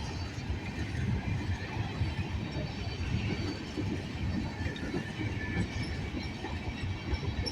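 Freight train rolling past, its cars rumbling and clattering steadily on the rails, with faint wheel squeal above.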